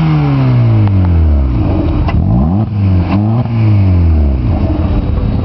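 Peugeot hatchback's engine revving: the revs wind down from high, are blipped up and down about twice, hold briefly, then drop back near the end.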